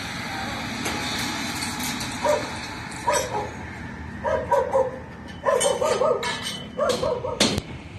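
A dog barking repeatedly in short runs of barks, with a few sharp knocks, the loudest near the end.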